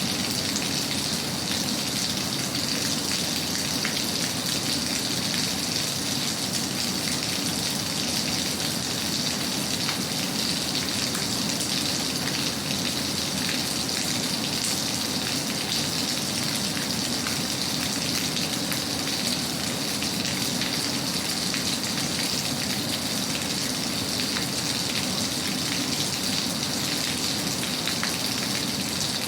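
Steady rain falling: an even hiss of drops with many small ticks.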